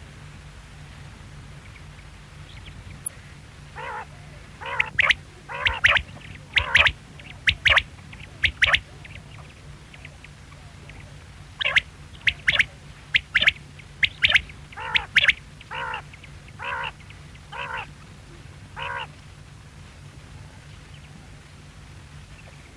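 Quail calling in two bouts of short, sharp repeated notes, many in quick pairs, over a steady low hum.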